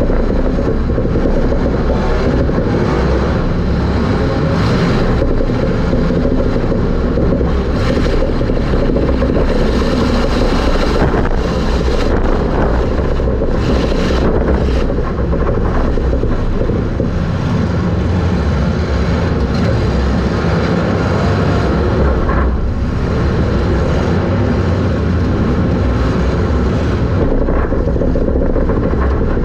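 Super stock race car running hard on track, heard from inside the car: a steady, loud engine and drivetrain noise mixed with wind and rumble.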